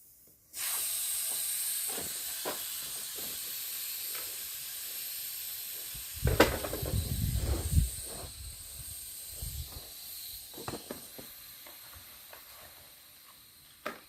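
Air hissing out of a Land Rover tyre's inner tube through the open valve stem, its valve core just removed to deflate it. The hiss starts suddenly about half a second in and slowly fades. A louder low rumbling with knocks comes in the middle, and there is a sharp click near the end.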